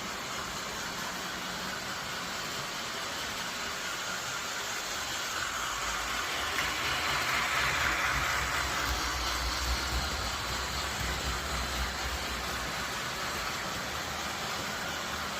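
Steady vehicle noise with a low rumble, swelling as something passes close about six seconds in and fading again a few seconds later.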